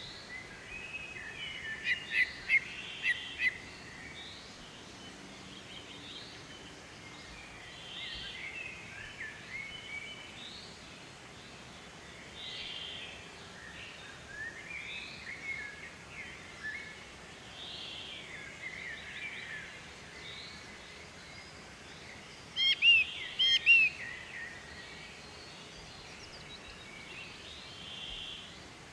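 Several birds calling and singing: short, sliding, chirping notes repeat throughout, and twice a loud run of quick, sharp notes stands out, once about two seconds in and again near the end.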